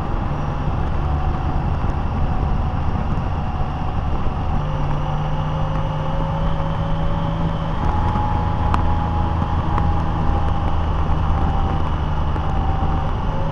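Car driving along a road: steady engine and road noise, with the engine note shifting about four and eight seconds in, and a couple of faint clicks near the middle.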